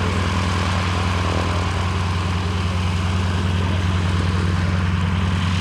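Radial aircraft engine idling steadily, with an even low-pitched drone.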